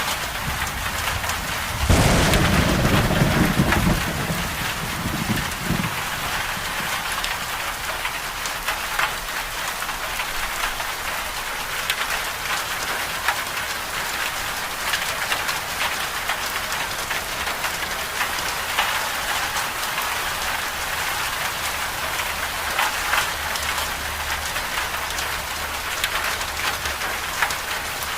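Steady medium rain with a loud crack of thunder about two seconds in that rumbles for about two seconds, followed shortly by a fainter rumble.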